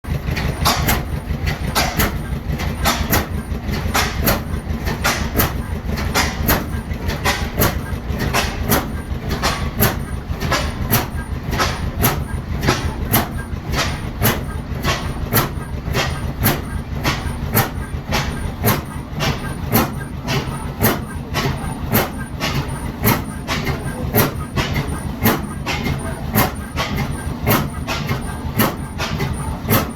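Ajax Ball half-breed oilfield engine, a steam engine converted to run on gas, running steadily. It gives a regular rhythm of sharp knocks, about two to three a second, over a low rumble.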